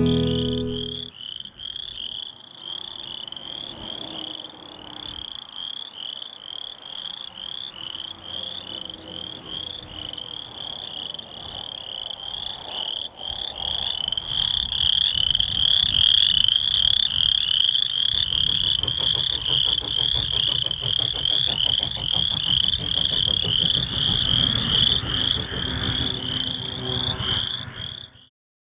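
A dense chorus of frogs, a steady high-pitched trilling made of quickly repeating pulses. A low rumble builds underneath from about halfway, and the sound cuts off suddenly just before the end.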